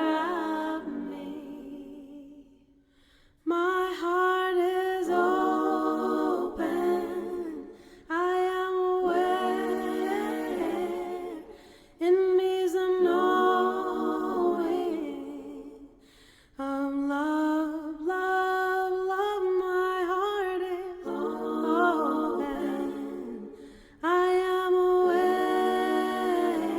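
Unaccompanied voice humming a slow, repeating chant melody in long held phrases of about four seconds each, with brief pauses for breath between them.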